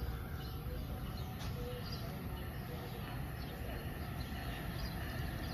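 Low steady rumble of a distant approaching commuter train, with scattered short bird chirps over it.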